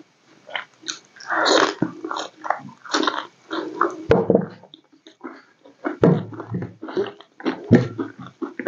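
Close-up chewing and biting sounds of a person eating a rice meal by hand, coming in irregular short bursts, with a sharp click about four seconds in.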